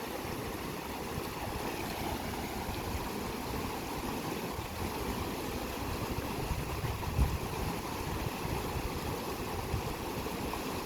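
Steady rushing of a monsoon-swollen mountain river. A single low thump about seven seconds in.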